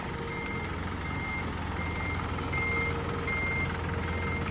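Skip bin truck's reversing alarm beeping at an even pace, about four beeps every three seconds, over its diesel engine running.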